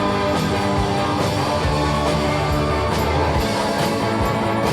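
Live rock band playing an instrumental stretch between sung lines: electric guitars, bass and drums keeping a steady beat.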